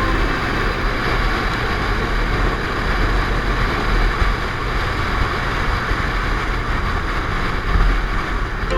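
Motorcycle on the move: a steady rush of wind over the microphone with a low engine and road rumble underneath, even in level throughout.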